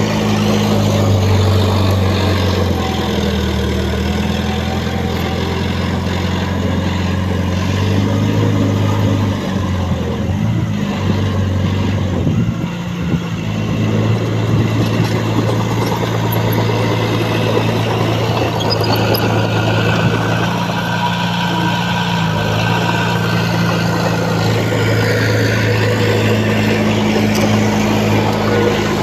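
Heavy diesel engine of earthmoving machinery running steadily, its low note shifting in pitch several times and dipping briefly around the middle.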